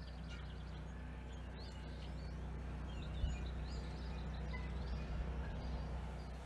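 Small birds chirping in many short calls over a steady low rumble, with one brief bump a little after three seconds in.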